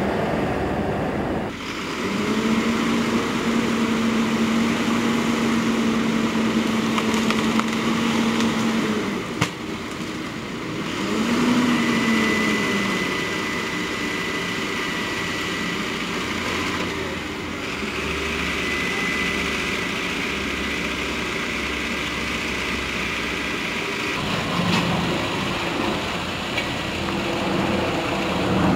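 Engines running steadily with a low hum, in several short clips cut together; the sound changes abruptly three times.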